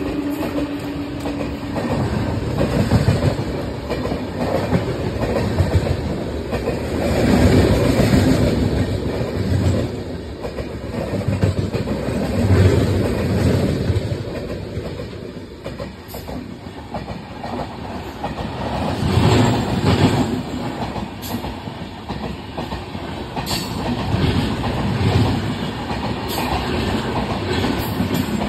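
Passenger coaches of an express train running past at speed on the adjacent track, wheels clattering over the rail joints. The noise swells and eases every few seconds as the bogies go by.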